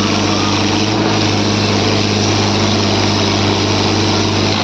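Diesel tractor engine running loud and steady at constant speed.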